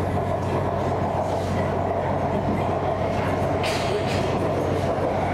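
Running noise inside a moving BTS Skytrain car on the elevated Sukhumvit Line: a steady hum and rumble from the motors and the wheels on the track, with a brief hiss about four seconds in.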